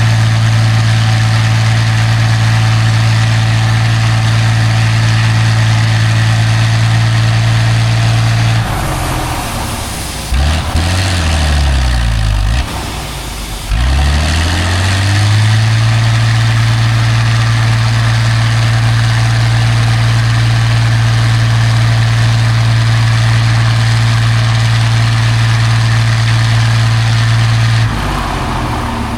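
Heavy off-road competition truck's engine held at steady high revs; in the middle the revs fall away and climb back twice, then hold steady again before dropping near the end.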